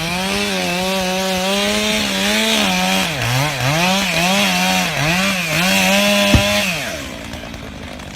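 Two-stroke chainsaw running at high revs. From about three seconds in, the engine speed dips and recovers several times, and about seven seconds in the sound drops away.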